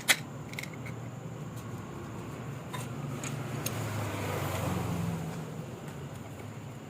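A sharp metallic click of hand tools on the engine, then a few lighter clicks, over a low steady hum; a low rumble swells about halfway through and fades again.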